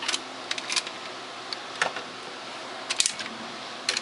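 Scattered light clicks and knocks of a plastic Power Rangers zord toy being handled and its parts moved, over a steady background hiss.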